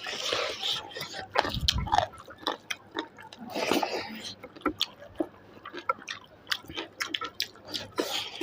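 Close-up eating sounds of chicken in clear soup: wet chewing with many small mouth clicks, and a few slurps of the liquid.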